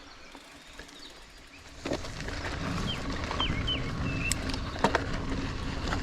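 Birds chirping with short falling notes. About two seconds in, a steady low rumbling noise comes in, with a couple of sharp clicks.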